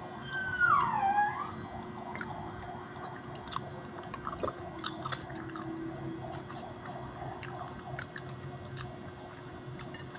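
A person chewing food close to the microphone, with soft wet mouth sounds. A short high cry falls in pitch and turns up again, about a second in.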